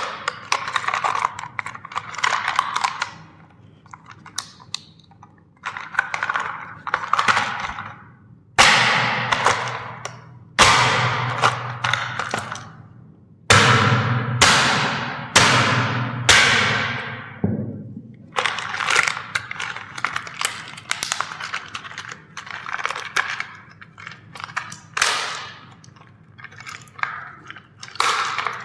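Plastic toys being crushed: bursts of crackling and crunching, with several sharp, loud cracks, each fading out over a second or so, clustered in the middle.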